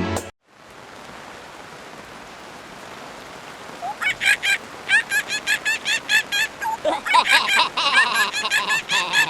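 A steady hiss, then from about four seconds in a quick run of short, high, animal-like calls, about three a second.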